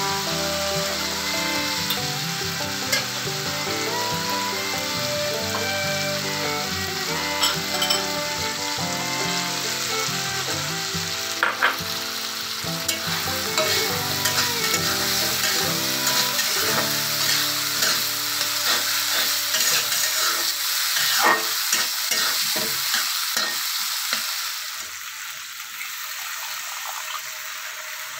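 Onion-and-spice masala sizzling in hot oil in a karahi, with a metal spatula scraping and stirring through it as potato chunks are mixed in. A backing tune plays under it for roughly the first two-thirds. The sizzling gets quieter near the end.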